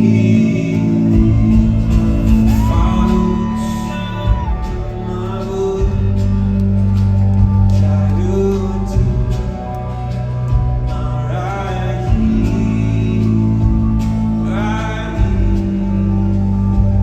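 Live band music: keyboard chords over a steady bass, with a male voice singing long held notes that come and go several times without clear words.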